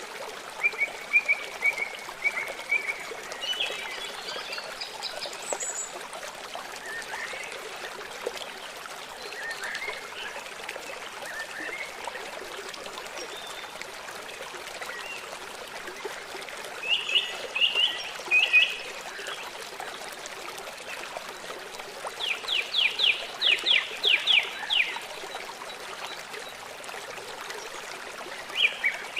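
Small birds singing and chirping over the steady trickle of running water. Short song phrases come and go, and about two-thirds of the way through one bird gives a fast run of repeated notes, about four a second.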